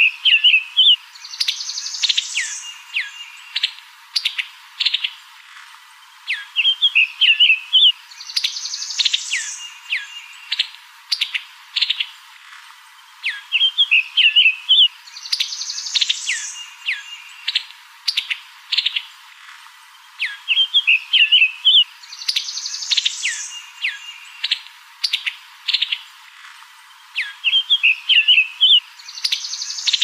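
Songbird singing, the same phrase repeating about every seven seconds: a quick cluster of chirps, a brighter higher burst, then a run of short falling notes.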